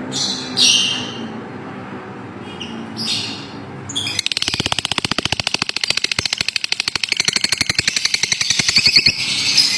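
Lovebirds calling: a few sharp chirps over a low hum, then from about four seconds in a fast, even run of rapidly repeated chattering notes.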